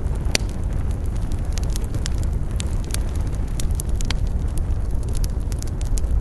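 Wood fire burning in a fireplace: a steady low rumble of flames with irregular crackles and sharp pops, one louder pop about half a second in.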